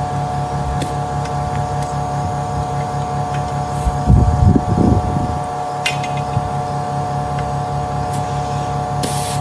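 A machine running steadily, a motor hum with a fast regular pulse, with a louder rumble for about a second around four seconds in.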